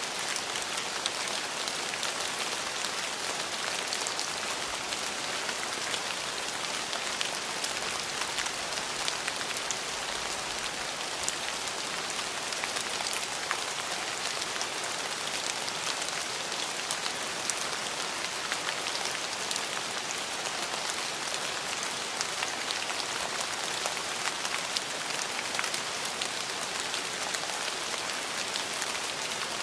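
Steady rain falling, a continuous hiss with many fine drop ticks and no break.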